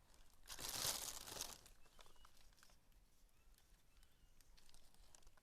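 A short burst of crinkling rustle about a second in, then faint scattered clicks.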